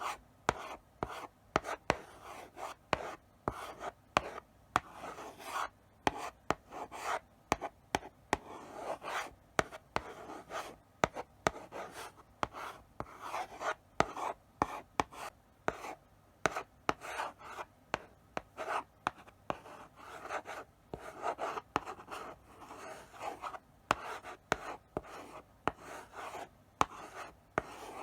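Chalk writing slowly on a blackboard: short scratchy strokes one after another, with sharp taps as the chalk meets the board at the start of strokes.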